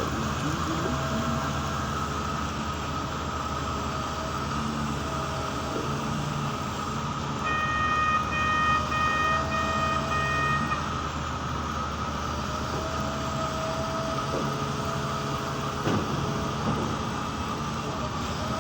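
Diesel engines idling steadily, with a run of repeated electronic beeps for about three seconds midway, typical of a loading machine's reversing alarm.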